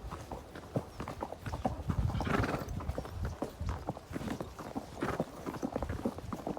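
Horse walking, its hooves clip-clopping in an uneven run of knocks, with a louder breathy burst of noise about two seconds in.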